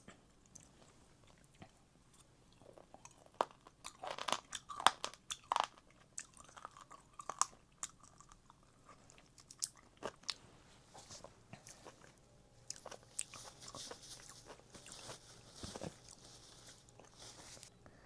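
A person chewing and biting crunchy raw seafood, with bursts of sharp crunches that come thickest from about 3 to 8 seconds in and then thin out.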